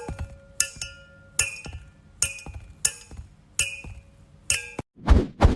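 Repeated sharp clinks, each ringing briefly at the same pitch, about one every three quarters of a second, like a hard glassy object being struck over and over. Two heavy low thumps come near the end.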